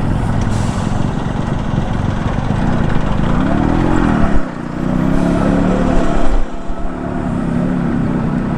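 Motorcycle engine running with road noise; about halfway through, its engine note rises and then falls.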